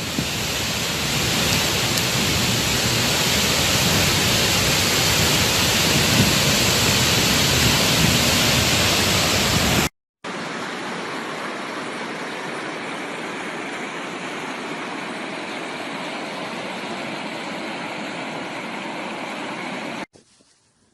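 Steady rushing water noise in two clips: loud for the first half, cut off abruptly about ten seconds in, then a quieter steady rush that cuts off near the end.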